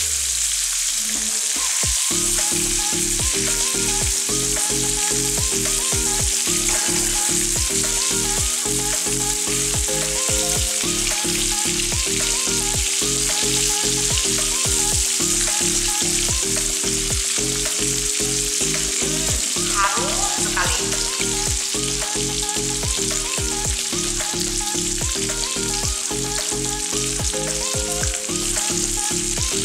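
Beef meatballs sizzling steadily in hot oil in a wok, turned now and then with a wooden spatula. Soft background music with a steady beat plays underneath.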